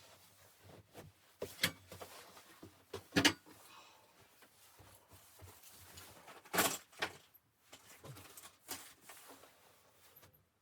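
Irregular knocks and clunks of objects being handled and set down, a few per second at most, the loudest about three seconds in.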